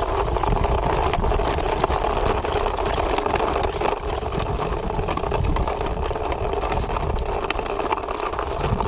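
Steady engine-like running noise with a heavy low rumble, going with a toy tractor being hand-driven. A quick run of small ticks comes about a second in.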